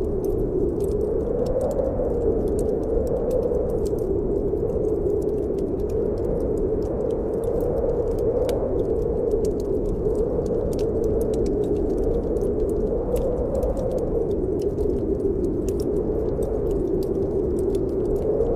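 Snowstorm wind blowing in a steady rush that slowly swells and eases, over a wood fire in a fireplace crackling with frequent small sharp pops.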